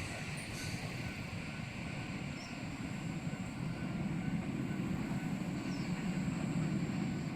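Train running past a level crossing: a low rumble that grows louder through the second half, with a faint, evenly repeating ding from the crossing's warning bell.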